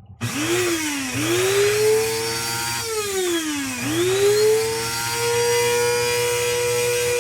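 Small electric coffee grinder's motor whirring: it spins up, slows and picks up speed again twice, then runs steadily at full speed. It is the grinder working again after its blown thermal fuse was replaced and its arcing button contact cleaned.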